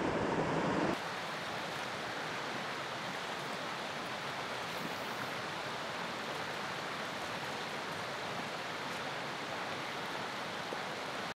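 Steady, even rush of running water with no other events. The sound changes abruptly about a second in, becoming quieter and smoother.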